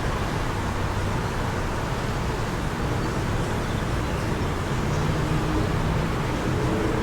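Steady wind rushing, with a faint low hum of traffic that grows a little about five seconds in.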